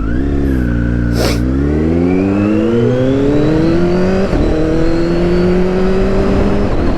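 Motorcycle engine pulling under acceleration, its note climbing steadily and dipping briefly twice as it shifts up through the gears, then easing off near the end. Wind buffets the microphone throughout.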